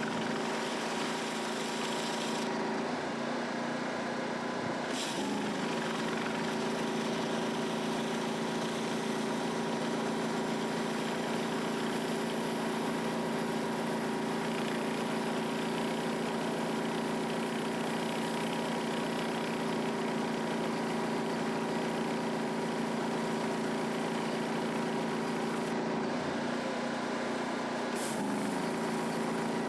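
Petrol pressure washer engine running steadily under the hiss of high-pressure water spray on concrete. Twice, about two seconds in and again near the end, the spray hiss cuts out for a couple of seconds and the engine note wavers as the trigger is released, then the spray resumes.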